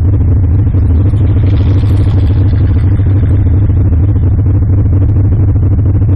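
A car engine running loudly with a deep, steady rumble, briefly rising about two seconds in.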